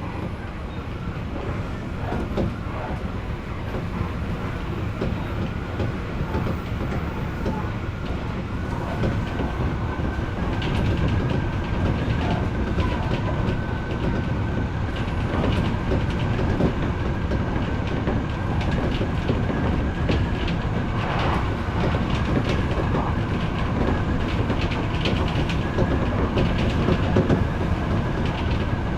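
Odakyu electric train running along the line, heard from inside the front car: a steady rumble with a thin high whine that rises a little about a third of the way in. It grows louder, with rail-joint clicks coming more often in the second half as it picks up speed.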